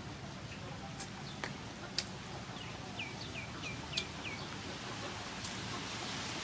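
A bird calls a quick run of five short falling chirps, about four a second, starting about three seconds in, over steady outdoor background noise. A few sharp clicks sound now and then.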